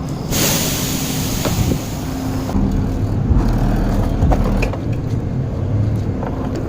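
A large fire burning with a low, steady rumble and scattered sharp crackles, with a loud hiss for about two seconds near the start.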